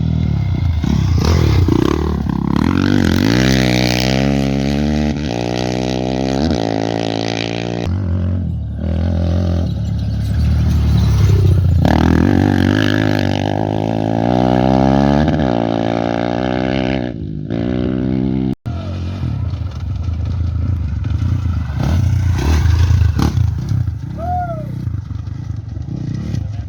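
Off-road race motorcycles accelerating past, engines revving up through the gears in repeated rising sweeps. One bike passes near the start and another about halfway through. After a sudden cut near the end the engine sound is lower and rougher.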